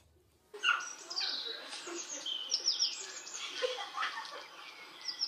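Birds chirping: a dense run of short, overlapping chirps that starts about half a second in.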